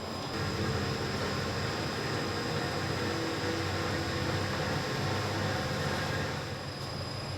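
Factory machinery running with a steady hum: a low drone under a thin, high steady whine. It grows louder shortly after the start and eases back near the end.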